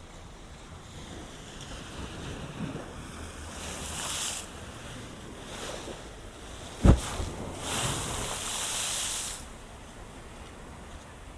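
Ocean waves washing against a seawall, with two hissing surges of water, the second longer, and a sharp thump, the loudest sound, about seven seconds in, just before the second surge.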